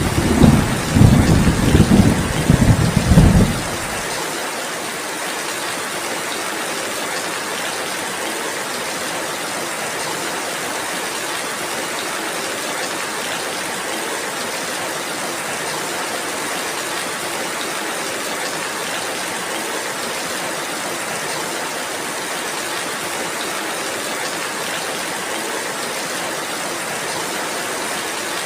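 Steady rainfall, an even hiss. For the first four seconds it is overlaid by loud, rolling low rumbles of thunder, which cut off suddenly.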